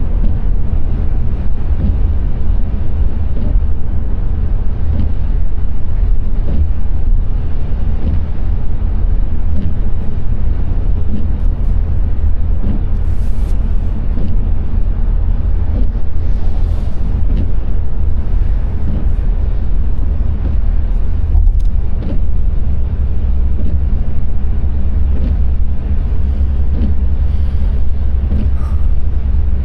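Car driving on a rain-wet road: a loud, steady low rumble of road and engine noise, with a couple of brief hisses about halfway through.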